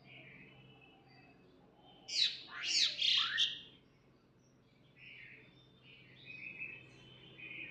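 Birds calling: soft chirps, then about two seconds in a loud burst of several quick, steeply sweeping squawking calls lasting about a second and a half, followed by softer chirping again.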